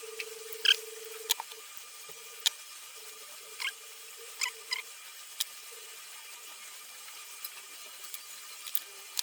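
Scattered short, high squeaks and clicks, about half a dozen in the first five seconds, over a steady hum that breaks up and fades out.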